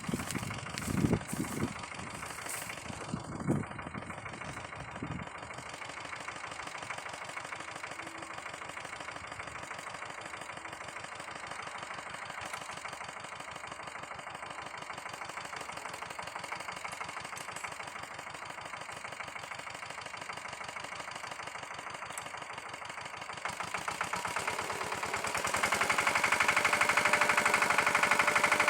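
Pasquali 946 tractor's Lombardini engine running with an even, steady pulse after a few loud low knocks in the first five seconds. About 24 seconds in it grows louder over a couple of seconds and stays there.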